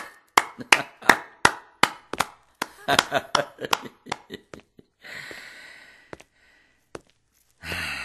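A run of sharp knocks and taps, evenly spaced at about three a second at first, then faster and scattered. Near the end come a breathy rush and a sigh.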